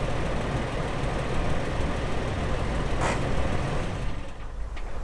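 A vehicle's engine running with a steady low rumble and road or tyre noise over it; the noise drops away about four seconds in, leaving the low engine hum. A short swish sounds about three seconds in.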